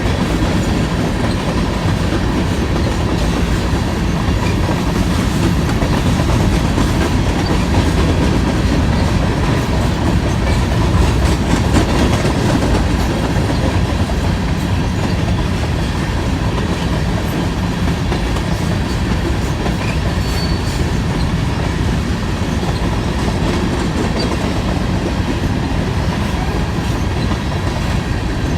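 Hopper cars of a long grain freight train rolling past at steady speed, their steel wheels clacking over the rail joints under a continuous rumble.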